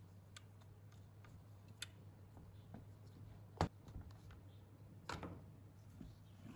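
A few faint, sparse clicks, with one sharper knock about three and a half seconds in, over a steady low hum.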